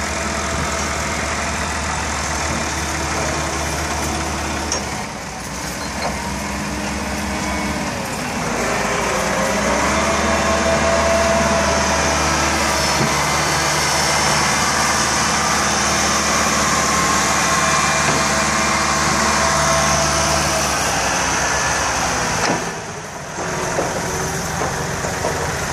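Tractor engine running. The engine speed rises about eight to ten seconds in, holds higher and louder for some ten seconds, then falls back about twenty-one seconds in.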